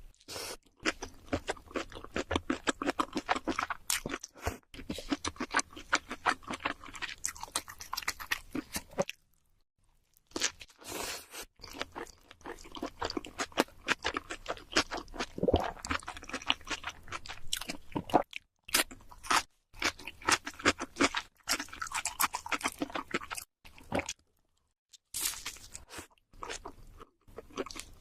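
Close-miked chewing and biting of cheese seafood pizza, with dense crunching and crackling from the crust and a couple of brief pauses.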